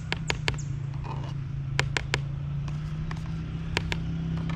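A spoon tapping sharply against a mixing bowl, knocking off cream cheese, in three quick groups of two or three taps, over a steady low hum.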